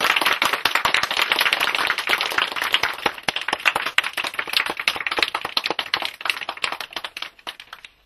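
Audience applauding, a dense clatter of many hands that thins out and dies away near the end.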